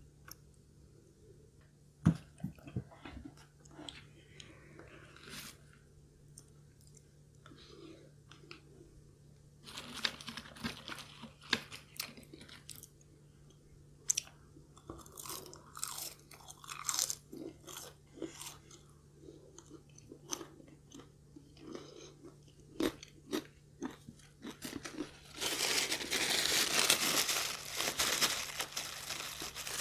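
Close-miked crunching and chewing of crispy fried food, including curly fries, in scattered bites that grow busier about a third of the way in. Near the end a paper napkin rustles steadily as it is wiped across the mouth.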